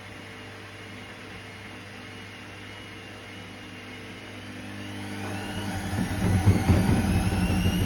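Hoover washing machine speeding up into its spin: a low steady hum gives way, about four and a half seconds in, to a rising motor whine. From about six seconds the drum knocks and rattles heavily and irregularly, the sign of a badly unbalanced load.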